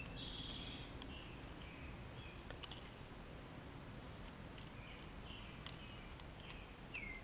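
Faint, scattered short bird chirps over a low steady hum, with a couple of light clicks.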